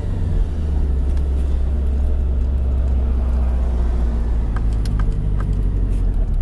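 Supercharged flat-four engine with a modified exhaust, heard from inside the car's cabin, running at low revs with a steady low rumble as the car creeps along. A few light clicks come in about four and a half to five and a half seconds in.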